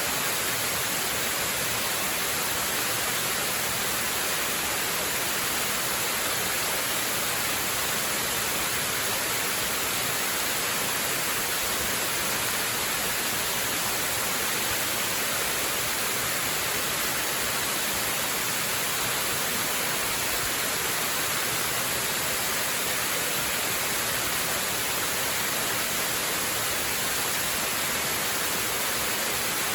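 Waterfall rushing in a steady, unbroken hiss, bright and even, with no changes or separate events.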